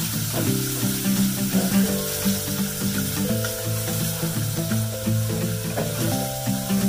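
Sea snails sizzling as they are stir-fried with chopsticks in an aluminium pot, under background music with held notes.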